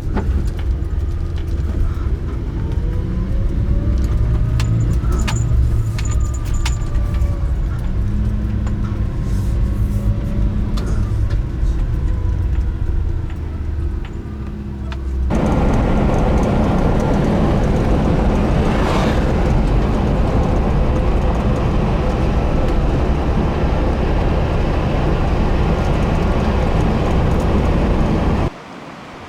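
A car driving on the road: a steady low engine and tyre rumble with a whine that glides up and down. About halfway through the road noise turns rougher and louder, as on a coarser road surface.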